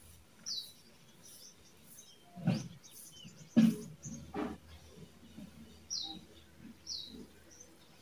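Small birds chirping outdoors, with short high falling chirps a few times. Several short rustling knocks fall in the middle, the loudest about three and a half seconds in.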